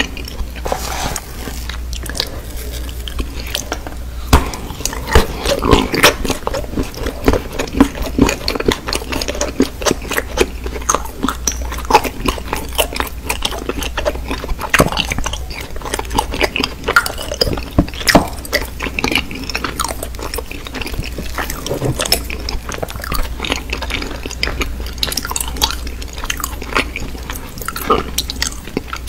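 Close-miked mukbang eating: a person biting and chewing soap-like pieces, with many irregular sharp mouth clicks and smacks over a steady low hum.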